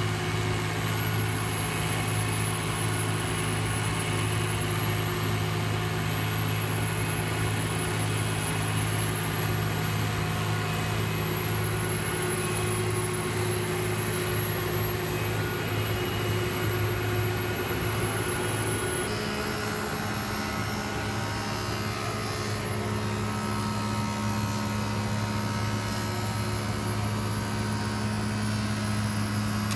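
Heavy machinery engines running steadily with a low drone. The sound changes abruptly about two-thirds of the way through, as at a cut to another machine.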